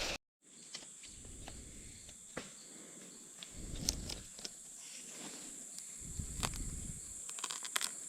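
Rainforest insects making a steady high-pitched drone, with scattered sharp clicks and a few soft low rumbles. It starts after a brief dropout at the very beginning.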